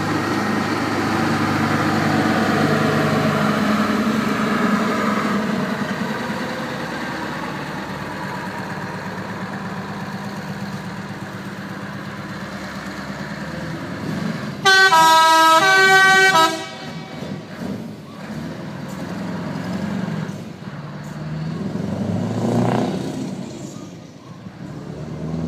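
Scania R500 truck's V8 diesel running as it drives by, loudest in the first few seconds. About fifteen seconds in comes a loud chord blast of its air horn lasting about two seconds, the loudest sound, after which the engine noise swells and fades again.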